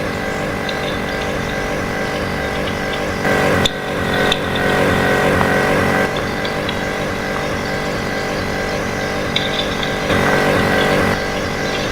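A motor vehicle engine running at a steady speed, louder for a few seconds around a third of the way in and again near the end.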